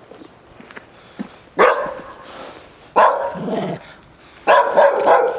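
A dog barking in three short bouts about a second and a half apart.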